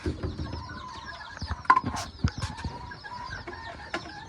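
Old English game bantam chicks peeping, many short falling chirps overlapping, with scattered light taps. Under a bantam rooster crows once, starting about a second and a half in and holding for about a second and a half.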